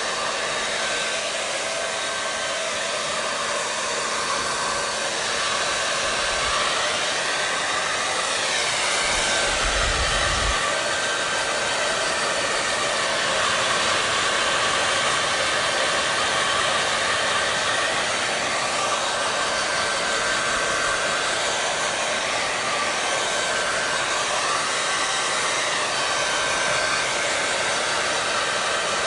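Hair dryer running steadily: an even blowing hiss with a faint steady whine, its pitch drifting gently up and down now and then. A short low thump comes about ten seconds in.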